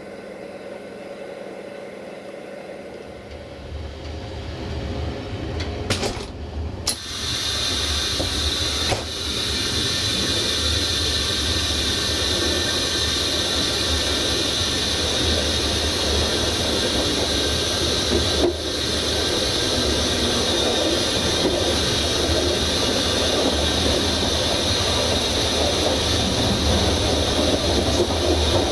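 Train hauled by an LDH1500 diesel-hydraulic locomotive, heard from on board: a low rumble builds over the first few seconds, then settles into a steady running noise with a strong hiss. There are two sharp clicks about six to seven seconds in.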